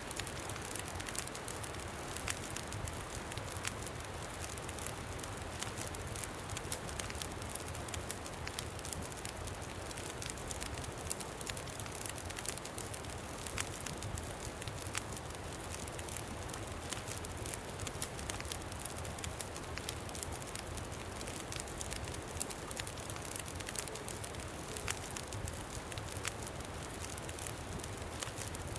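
Campfire crackling, with frequent small sharp pops and snaps over a steady low wind rumble.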